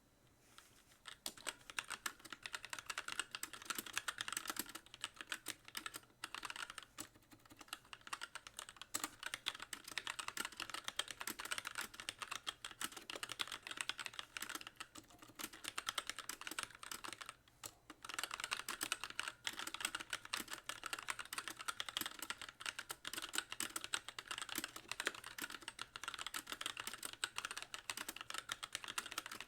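Fast typing on a Magicforce mechanical keyboard with light Gateron Clear linear switches and stock keycaps, a dense run of clacks starting about a second in, with short pauses twice. The switches are so light that the keys bottom out on nearly every press.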